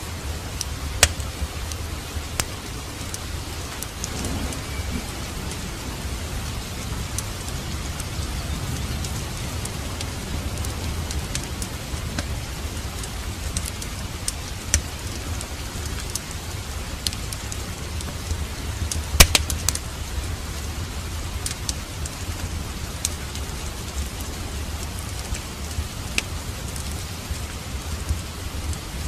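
Steady rain with a low rumble underneath, and sharp crackles and pops from a fireplace fire scattered through it, the loudest about two-thirds of the way in.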